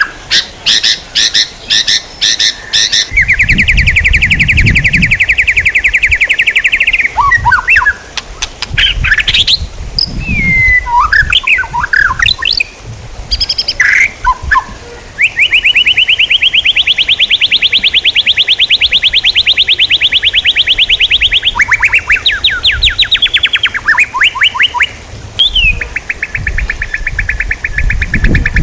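Songbird song: long, fast, evenly pulsed trills lasting several seconds each, broken by short whistled notes and chirps, with a run of sharp clicking notes in the first few seconds.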